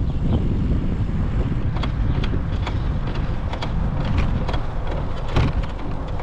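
Wind rushing over the microphone on a moving bicycle, a steady low rumble, with irregular sharp clicks or rattles about twice a second from about two seconds in.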